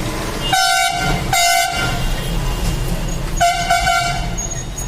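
Vehicle horn honking in three short blasts, over a steady low rumble of traffic.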